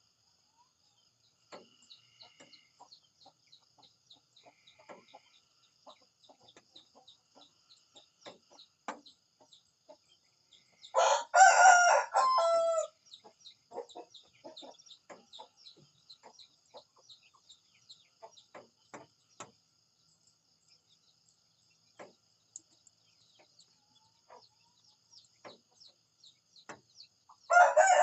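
A rooster crowing: one loud cock-a-doodle-doo about halfway through, and another starting just before the end. In between, only faint scattered clicks and a couple of brief faint chirps.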